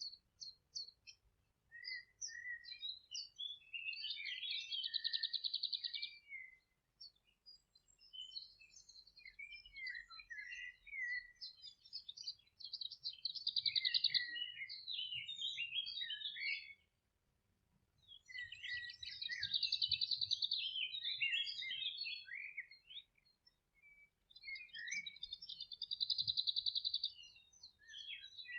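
Birds singing: bursts of rapid chirps and trilled phrases, high-pitched, with short pauses between phrases.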